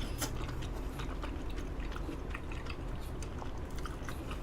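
Close-miked chewing of crispy fried tempura, with many small irregular crunches and crackles.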